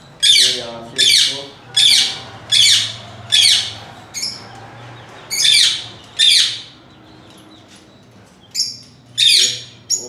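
Caged birds squawking: harsh, high calls that each fall in pitch. They come in a run of five at a bit more than one a second, then two more, then a short pause, and a last pair near the end.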